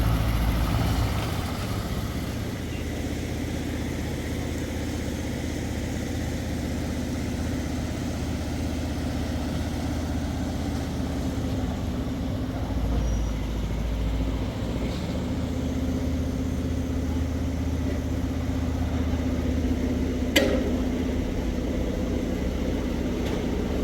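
Engine running steadily, with a brief low surge about halfway and one sharp knock near the end.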